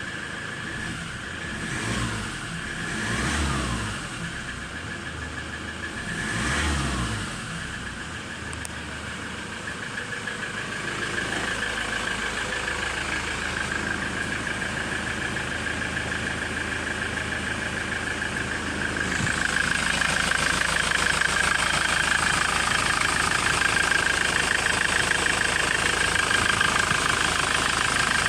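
Ford Transit van engine running: revved briefly three times in the first several seconds, then settling into a steady run that grows louder about two-thirds of the way through. A steady high whine runs under the engine sound.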